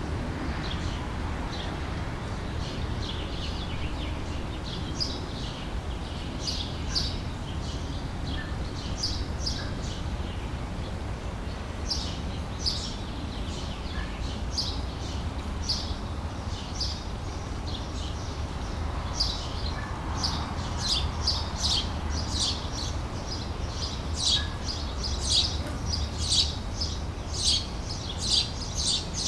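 Small songbirds chirping and singing in quick short notes, growing busier and louder in the second half, over a steady low background noise.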